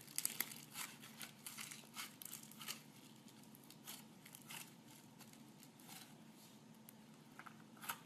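Slime being squeezed and stretched by hand, giving faint, irregular sticky crackles and pops, busiest in the first few seconds and again near the end.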